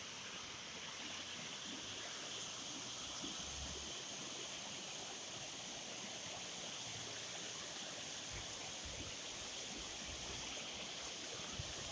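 River water running steadily, an even rush of flowing water.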